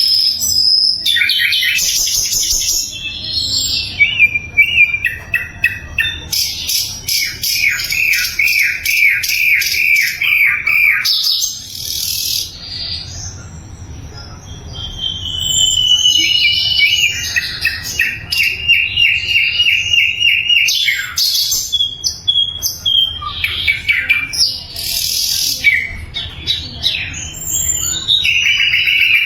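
Sikatan londo flycatcher singing a varied song of rapid trills of repeated notes and short high whistled phrases, with a brief lull near the middle.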